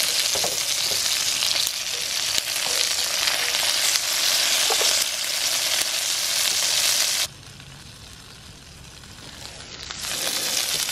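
Fish fingers sizzling in hot oil in a cast iron frying pan, a steady hiss. About seven seconds in it drops suddenly to a much quieter stretch, and the sizzling comes back near the end.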